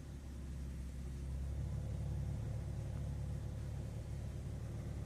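Mitsubishi 3000GT VR4's twin-turbo 3.0 L V6 idling steadily, a low even hum that grows a little louder over the first second or two.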